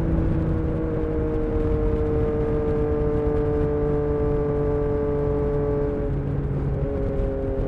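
Yamaha XSR900's inline three-cylinder engine running through its exhaust with the dB killer removed, holding a steady note whose pitch slowly sinks as the revs ease off.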